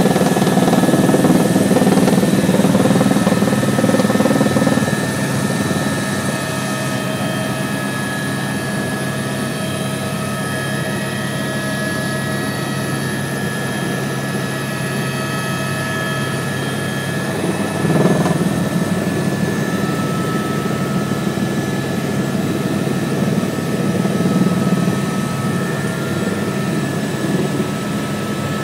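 Tour helicopter's turbine and rotor running steadily as it comes in to land, a continuous rumble with steady high whining tones. It is louder for the first few seconds, with a brief swell about eighteen seconds in.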